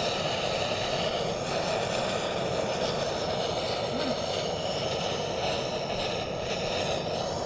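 Bernzomatic handheld propane torch burning with a steady jet of flame, held on charcoal to light it.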